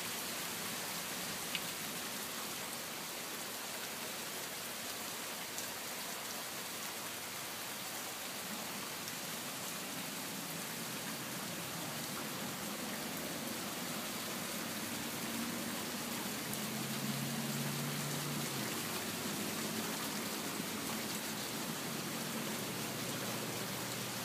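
Steady rain falling, an even hiss with a few louder single drips. A low hum comes in about halfway through and continues under the rain.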